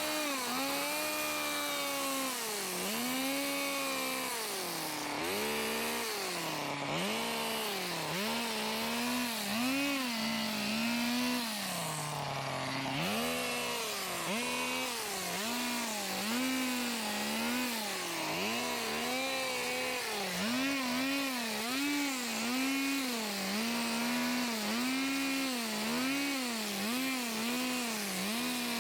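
Gas hedge trimmer's small two-stroke engine revved over and over while cutting shrubs, its pitch rising and falling again and again, slower at first and then about once a second.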